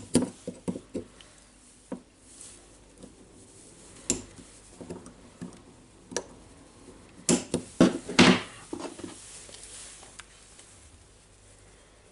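Irregular clicks, clinks and knocks of tools and small hard parts being handled on a workbench, with a cluster of louder knocks about seven to eight seconds in.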